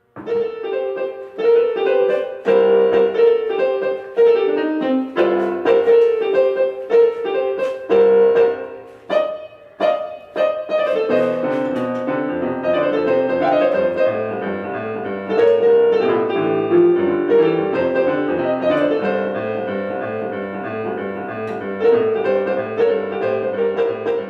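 Piano music with a melody over chords.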